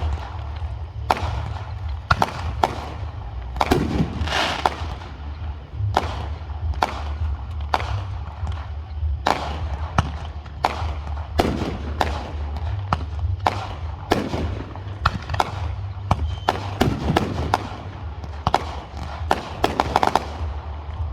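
Fireworks going off in a rapid series of sharp bangs, about one or two a second, over a steady low rumble.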